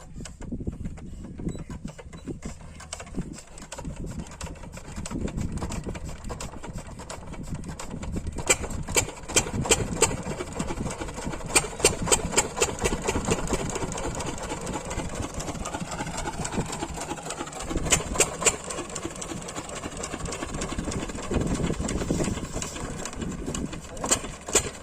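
12 hp diesel engine of a borewell water-pump set running with a rapid, even mechanical rhythm, with sharp regular knocks from about eight seconds in.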